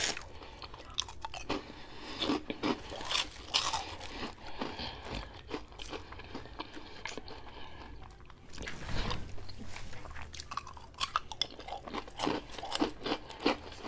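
A person chewing crunchy food with the mouth closed, with many irregular crunches, picked up close on a clip-on microphone.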